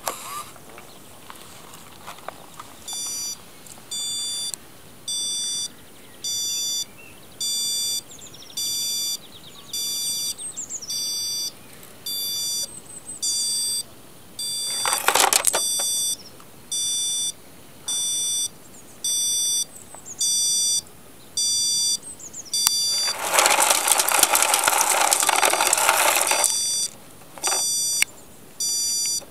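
Electronic beeper on an RC Bruder Scania toy truck, sounding a short high beep about once a second, like a reversing warning. A brief burst of noise comes about halfway through, and a longer, louder stretch of noise near the end.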